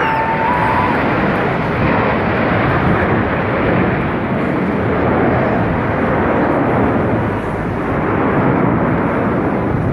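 Loud, steady jet noise from Blue Angels F/A-18 Hornet jets flying over the air show.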